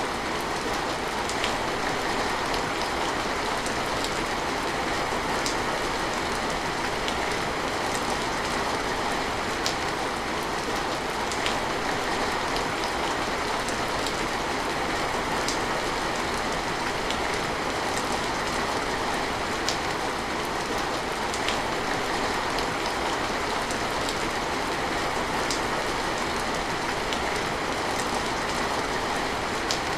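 Steady rain falling, with the odd sharper drop ticking every second or two.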